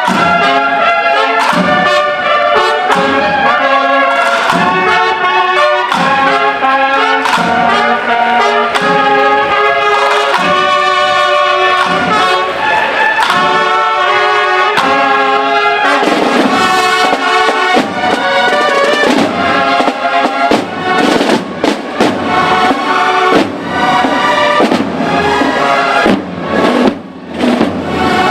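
Processional brass band with drums playing a Holy Week processional march: held trumpet and trombone notes over a steady drum beat, the drums coming more to the fore in the last third.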